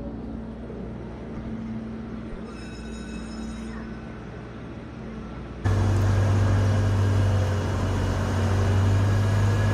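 Car engines idling with a steady low drone; a little over halfway through it jumps suddenly to a much louder, closer engine idle.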